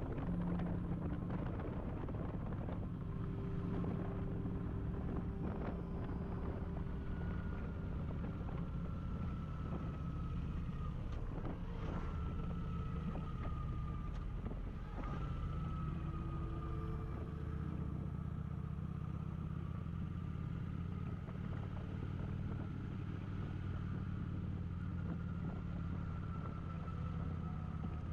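Kawasaki Vulcan motorcycle engine running steadily while riding, with no revving.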